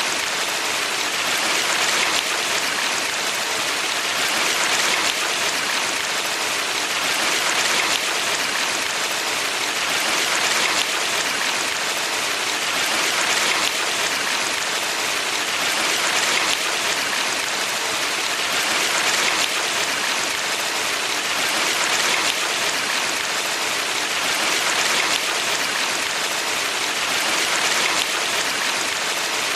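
Water rushing in a valley stream: a steady, even hiss that swells gently about every three seconds.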